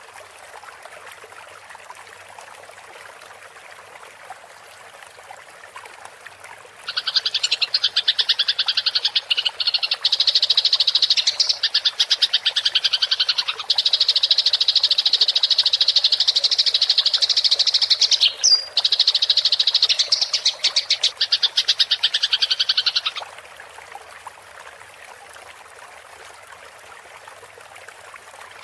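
Eurasian tree sparrows chattering in a rapid, continuous fighting rattle that starts about 7 seconds in and stops abruptly about 16 seconds later. Before and after the chatter only a faint steady trickle of water is heard.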